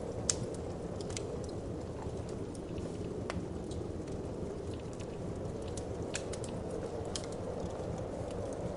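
Wood fire crackling in a fireplace, with irregular sharp pops (the loudest about a third of a second in) over a steady, low whoosh of wind.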